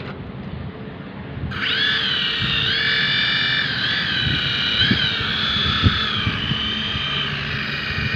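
Small electric motor of a toy RC helicopter starting about a second and a half in and spinning its rotors with a high whine that wavers slightly up and down in pitch. A few light knocks come in the middle.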